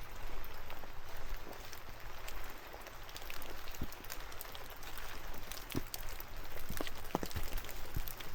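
Steady rain falling through the trees, with individual drops ticking irregularly on nearby surfaces over a constant hiss.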